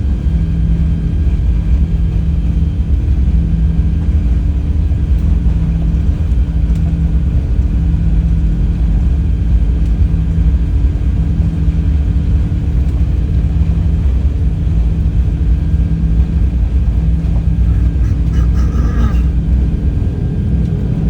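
Airbus A380's four Engine Alliance GP7200 turbofans at takeoff thrust during the takeoff roll: a loud, steady, deep rumble with a constant low hum.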